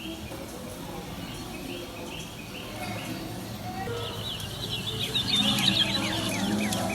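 Birds chirping in a dense, rapid run of short falling calls that start about halfway through and grow louder, over the low murmur of a market crowd.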